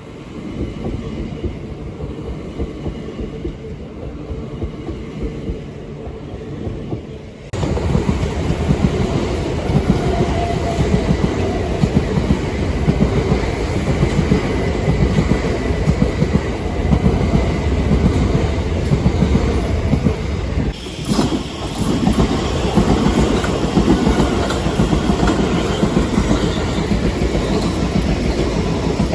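A train passing close by on the line, its wheels clattering over the rail joints, with some wheel squeal. The sound gets suddenly much louder about seven seconds in, and there is a brief break a little after twenty seconds.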